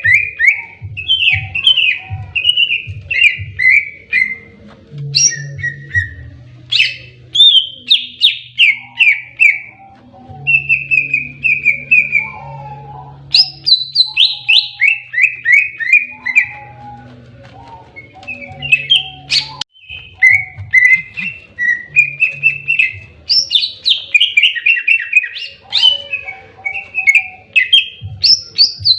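Cucak ijo (greater green leafbird) singing in aggressive 'tarung' fighting mode: loud, rapid runs of sharp whistled notes that fall in pitch, phrase after phrase with only brief pauses. A faint low hum runs underneath.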